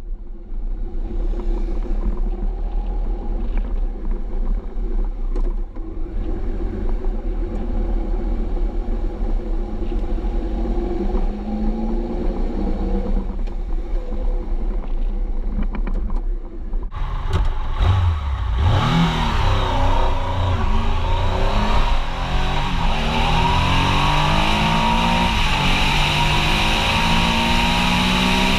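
Triumph Explorer 1200's inline three-cylinder engine through an Arrow exhaust, running at low, fairly steady revs with the pitch creeping up. About two-thirds of the way through, the sound changes suddenly to hard acceleration: the revs climb and fall back several times as it shifts up through the gears, with wind noise growing.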